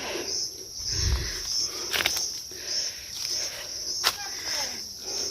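Insects, crickets or cicadas, chirping as a steady high pulsing buzz of about two pulses a second. Two sharp clicks come through about two and four seconds in.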